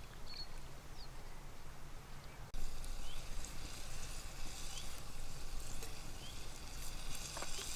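Outdoor ambience: a low steady rumble with a few small bird chirps. About two and a half seconds in it cuts to a brighter steady hiss, with a short rising bird chirp repeating about once a second.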